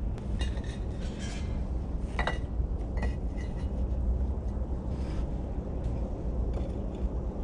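A few light clinks and taps over a steady low rumble.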